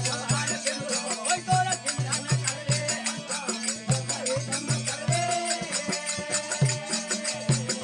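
Rajasthani desi bhajan music with no singing: a steady low drum beat about twice a second under constant jingling percussion, with a melody line wandering above.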